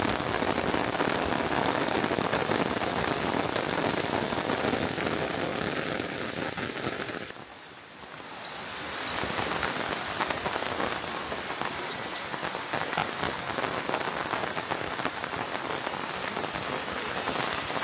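Steady rain falling, a dense patter of drops. About seven seconds in it suddenly drops away, then swells back up over a couple of seconds.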